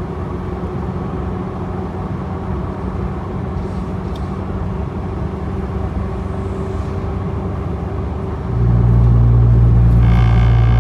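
Cabin sound of a Corvette C8 Z06, with its flat-plane-crank 5.5-litre V8, cruising at about 45 mph on a wet road in weather mode: a steady mix of engine and tyre noise. Near the end a louder, deeper drone sets in and holds for about two seconds.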